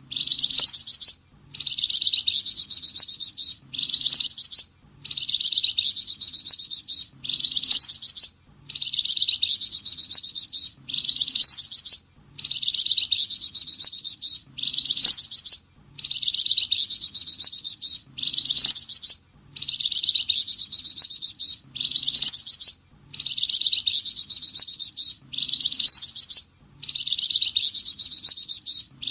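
Flamboyan songbird singing its 'tembakan' song: a rapid high-pitched trill, about two seconds long, repeated over and over with short pauses between phrases.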